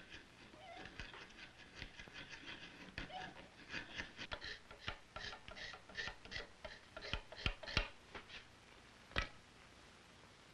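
Wood chisels squaring out a cavity in a wooden rifle stock: an irregular run of short scraping cuts and sharp clicks, with a few louder knocks in the second half and a last sharp knock about nine seconds in.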